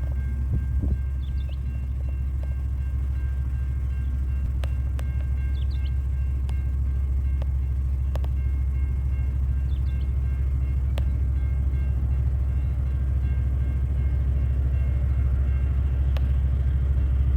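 SCT freight train rumbling steadily, with faint steady high-pitched tones above and a few scattered sharp clicks.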